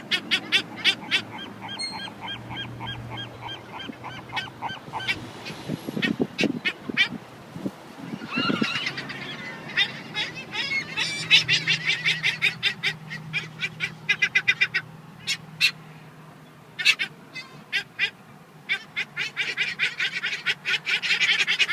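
Seagulls calling, many short sharp calls in quick runs from several birds. The calls come in bursts: at the start, through the middle, and again near the end.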